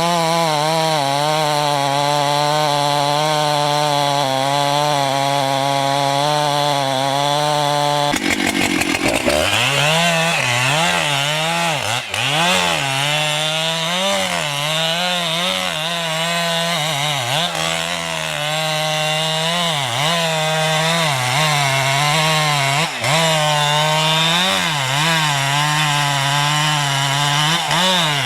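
The engine of a motorised wood cutter runs at high speed. It is steady for the first several seconds, then its pitch keeps dipping and recovering as the cutter bogs down in wood and picks up again.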